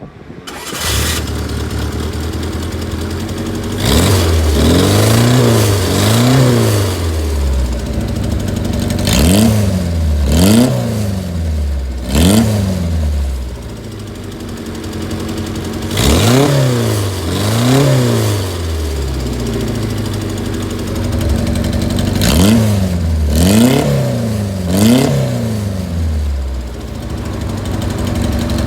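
Fiat Abarth 1000 TC's small four-cylinder engine, heard through a one-off custom exhaust with a variable valve, idling and blipped repeatedly in quick free revs, mostly two or three at a time, falling back to idle between them.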